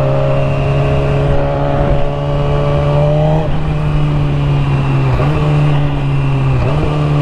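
Motorcycle engine under way, loud, its pitch climbing slowly and then dropping sharply about three and a half seconds in, with two brief dips later on, like gear changes, over a low rush of wind and road noise.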